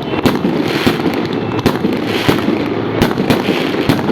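Fireworks going off: about six sharp bangs at irregular intervals over a steady, dense crackling of many more shots.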